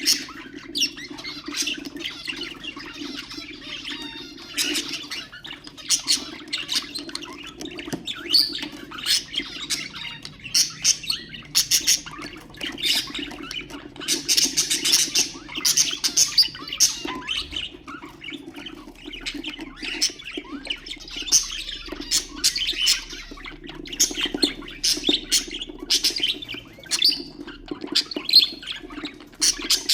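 Budgerigars chattering, with rapid, irregular chirps and short squawks throughout, over a low steady hum.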